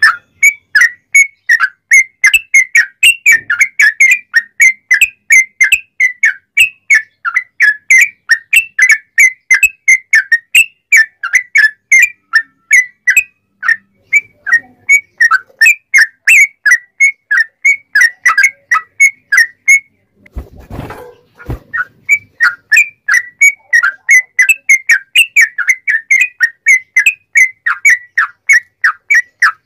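Sooty-headed bulbul singing a loud, fast string of short repeated whistled notes, about three or four a second, in the rapid-fire style that mimics a straw-headed bulbul. About two-thirds in the run breaks for a second or so under a brief low bump.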